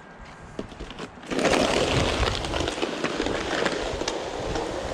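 Wet, slushy snow crunching and crackling, starting loud and dense about a second in.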